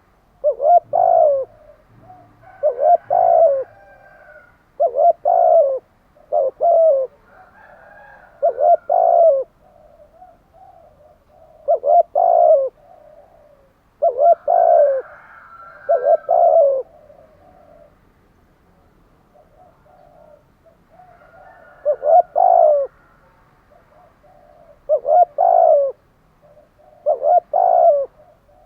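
Spotted doves cooing. One loud bird repeats its short coo phrase of two or three notes every second or two, while fainter doves coo in the gaps.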